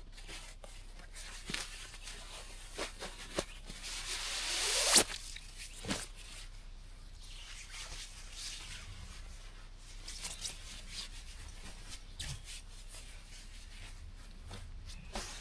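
Rustling, rubbing and scattered clicks of an item being handled and worked at to get it open, with one long rising rip or tear about four seconds in that ends in a sharp snap.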